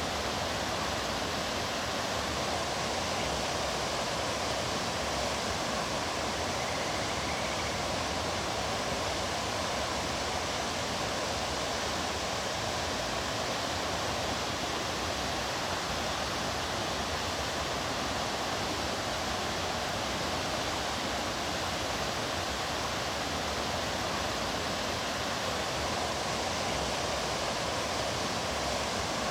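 Mountain stream water rushing steadily, an even, unbroken sound of flowing water.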